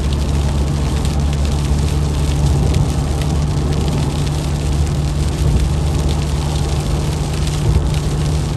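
Vehicle cabin noise while driving in rain: a steady low engine and road hum, with many fine raindrop ticks on the body and windscreen.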